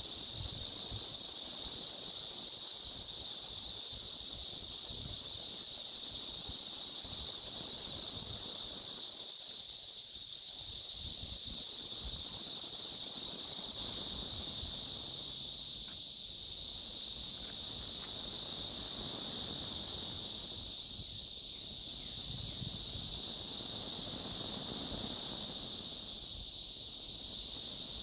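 A dense chorus of many cicadas singing together in a continuous high-pitched drone that swells and eases slightly in loudness.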